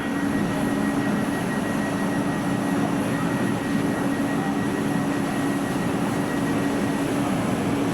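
Electric locomotive-hauled train running by, a steady rushing noise with a constant low hum and a faint high tone above it.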